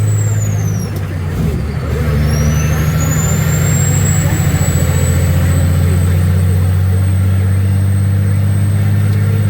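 Heavy diesel truck engine pulling under load, with a brief drop about a second in, like a gear change, before it picks back up. A high whine falls with the drop and then climbs steadily as the engine pulls again.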